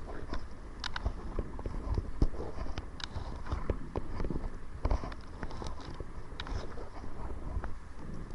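Kayak paddling: water splashing and dripping off the paddle blades with irregular small knocks, over a steady low rumble of wind buffeting the microphone.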